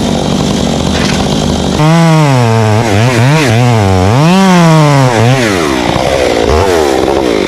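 Chainsaw engine running loudly and steadily, then from about two seconds in revving up and down repeatedly, its pitch rising and falling several times.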